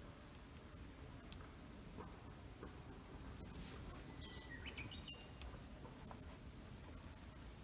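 Insect trilling at one high pitch in long stretches broken by short gaps, with a brief high chirping call about four seconds in and a couple of faint clicks.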